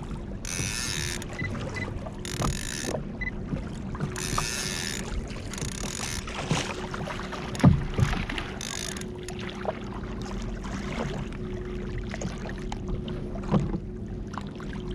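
Water splashing in short bursts beside a kayak, with a few sharp knocks on the hull, the loudest about halfway through.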